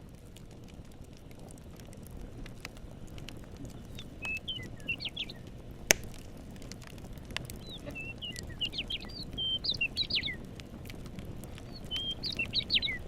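Campfire crackling with scattered sharp pops, one loud pop about six seconds in, over a steady low rumble. A songbird sings quick chirping phrases in three bursts, about four, eight to ten and twelve seconds in.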